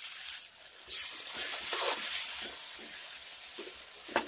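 A wet ground paste of onion, garlic, ginger and chilli sizzling as it hits hot oil in a metal wok, with a spoon and spatula scraping and stirring it. The sizzle swells about a second in and then settles to a steady hiss, with a sharp clack near the end.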